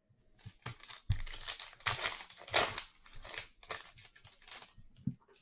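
A foil trading-card pack wrapper crinkling and tearing in a run of irregular rustling bursts lasting about four seconds.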